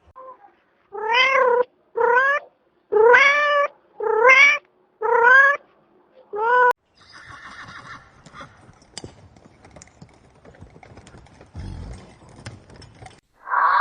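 A domestic cat meowing six times in a row, each meow short with the pitch rising through it, about a second apart. This is followed by several seconds of much fainter noise with scattered clicks.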